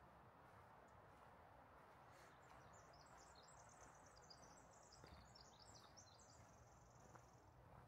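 Faint song of a small songbird: a long, rapid run of high notes lasting about five seconds, ending in a short even trill, over a faint hush of forest background.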